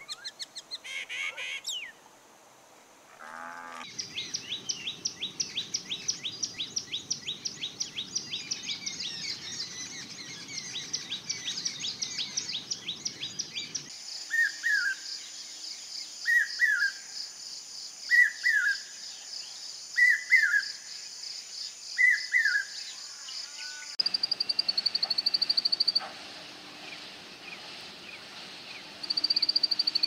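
A sequence of Indian bird calls. In the middle, a common hawk-cuckoo calls five times, about every two seconds, over a steady high buzz. From a few seconds later, an Indian bushlark gives short rapid high trills; earlier there is a fast series of high chirps over a low rumble.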